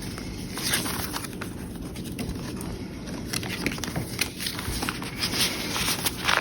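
Paper pages of a handmade junk journal being handled and turned, an irregular run of soft rustles, scrapes and light taps.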